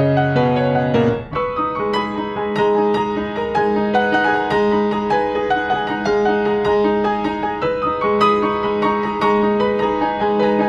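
Background piano music: a steady run of notes over a held low note, with a short break about a second in.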